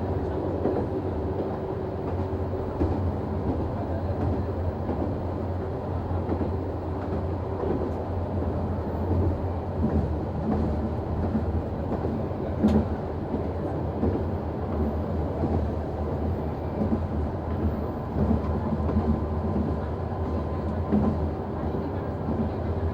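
Noto Railway NT100 diesel railcar running at speed, heard from the cab: a steady low drone of its diesel engine under the rumble and knocking of wheels on rail, with one sharp click about halfway through.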